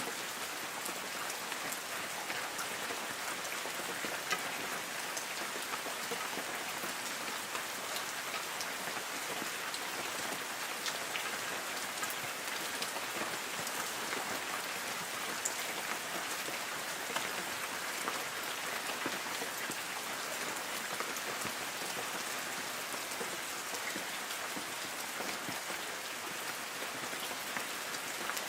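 Light rain falling steadily on forest trees, an even hiss peppered with the small ticks of individual drops.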